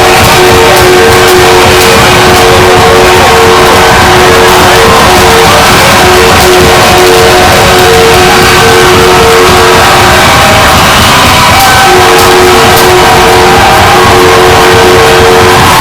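Hockey arena crowd cheering loudly enough to distort, with a steady two-note tone sounding over it that breaks off for about two seconds near ten seconds in.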